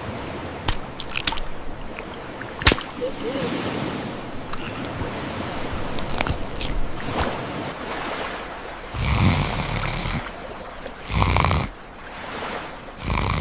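Steady sea-and-wind noise, with a few sharp clicks in the first seconds and then three louder noisy bursts about nine, eleven and thirteen seconds in.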